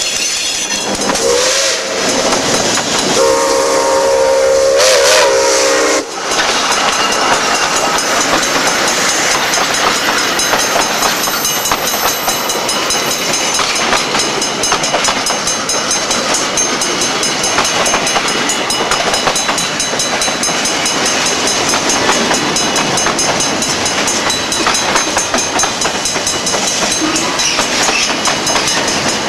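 Nickel Plate Road 765 steam locomotive's whistle sounding two blasts, the second longer and wavering, which cut off sharply about six seconds in. The train then rolls past with steady loud wheel-on-rail noise and clickety-clack.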